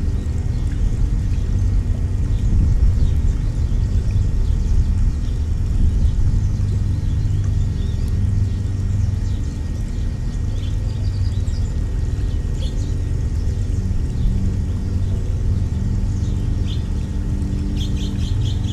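Steady low rumble with faint songbird chirps over it: short high notes scattered throughout, and a quick run of several chirps near the end.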